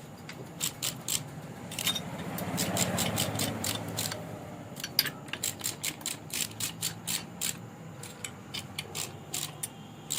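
Ratchet wrench clicking in short runs as the cylinder head nuts of a Yamaha RX100 two-stroke engine are run down, several sharp clicks a second with brief pauses between strokes.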